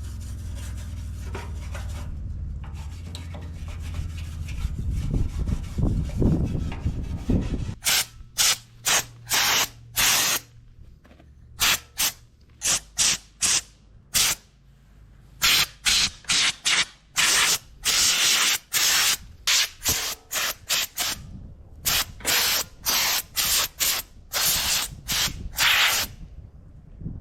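Scrubbing the steel fuel tank of a Ford 545A backhoe by hand: steady rubbing at first, then from about eight seconds in a long run of short, sharp scrubbing strokes.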